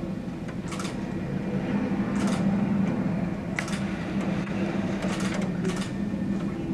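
A steady low mechanical hum with a second tone just above it, broken about every second or so by brief hissing rushes.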